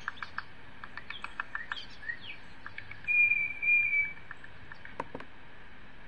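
Recorded tufted titmouse song played through computer speakers: two clear whistled notes at one steady pitch about three seconds in, over a run of short, quick high notes. Two sharp clicks come near the end.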